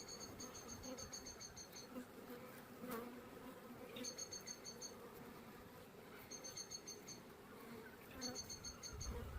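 Honey bees buzzing in a low, steady hum around a hive box entrance where bees have begun fanning. A fast, high pulsed trill sounds four times over the hum.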